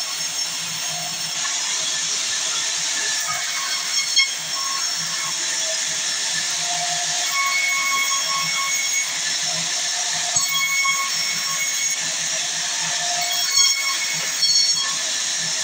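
Sawmill saw running through wood: a steady high whine with shifting tones, and sharp knocks about four, ten and thirteen and a half seconds in.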